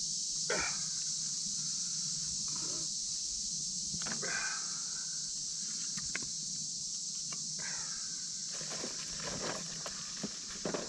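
Steady high-pitched evening insect chorus, typical of crickets. Over it come intermittent rustles, scrapes and light knocks as wood and debris are handled at a campfire ring.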